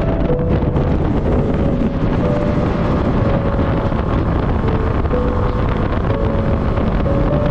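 Wind buffeting the microphone over a steady low engine rumble, with a faint melody of background music stepping from note to note above it.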